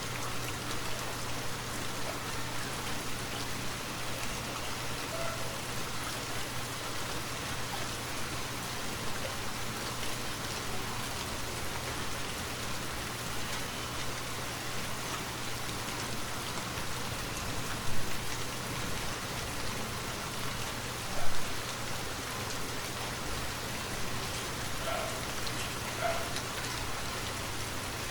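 Steady rainfall with scattered drops pattering. Two brief, louder sharp taps come about two thirds of the way through.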